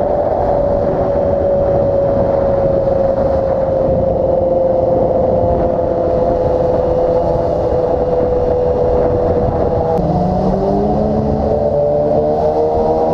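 Motorcycle engine running at steady riding revs under wind noise, its note slowly easing down in pitch. About ten seconds in the note changes and starts to rise as the bike picks up speed again.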